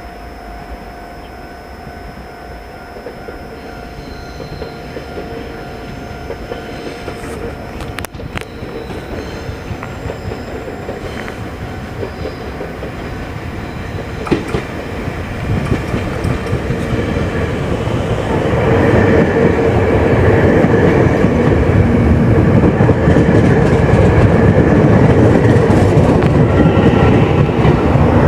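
A train approaching, growing steadily louder, then running close by with a loud wheel clatter over the rail joints from about two-thirds of the way in.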